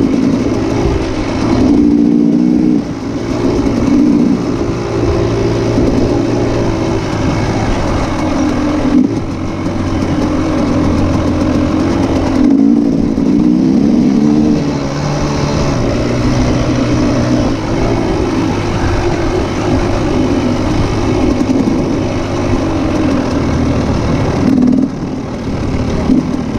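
Motocross motorcycle engines revving hard, the pitch rising and falling, with brief drops in throttle every few seconds.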